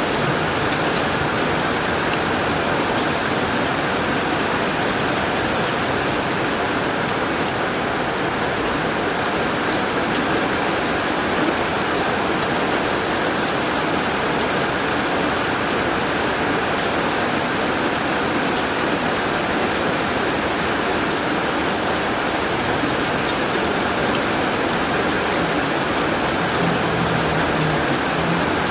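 Heavy rain falling on a tin roof: a steady, even hiss with the taps of single drops in it.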